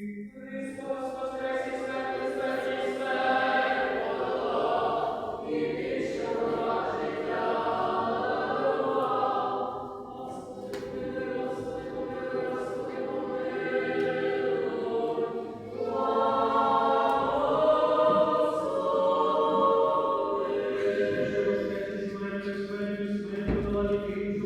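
Church choir singing Eastern-rite liturgical chant unaccompanied, several voices in long sustained chords.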